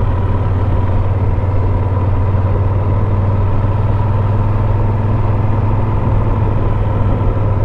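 Motorcycle engine running steadily at an even speed, with wind and road noise.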